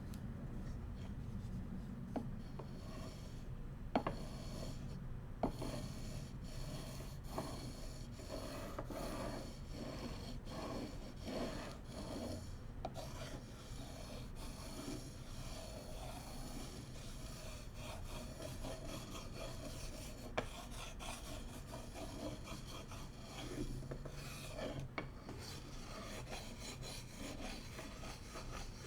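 Bamboo cooking utensils being rubbed and scraped in a steady, rasping scratch, with a few sharp taps or clicks.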